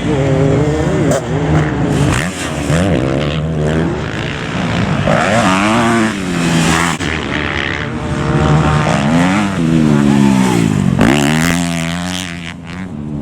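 Motocross bikes' engines revving hard, the pitch climbing and dropping again and again as they accelerate and change gear, with more than one engine heard at times.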